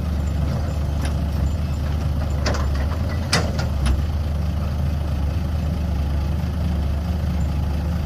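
Cat 320B excavator's diesel engine running steadily with a deep drone, with a few short, sharp knocks in the middle.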